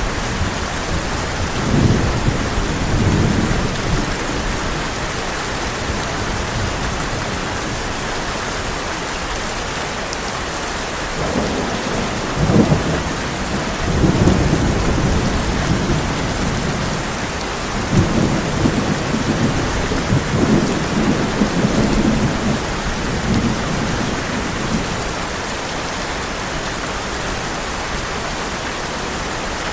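Heavy rain hissing steadily on a tin roof. Thunder rolls in three times over it: a few seconds in, again about halfway through, and once more a few seconds later.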